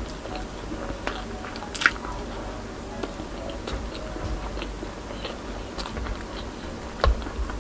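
Close-miked chewing with wet mouth sounds and small clicks as a mouthful of rice and Bicol Express is eaten, with two sharper smacks or clicks, about two seconds in and near the end.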